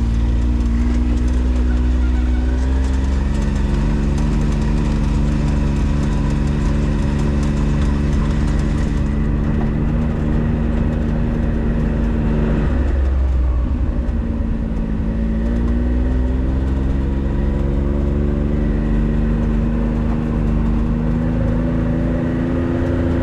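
Vehicle engine running under way, its note climbing as it gathers speed, dipping about halfway through and then climbing again.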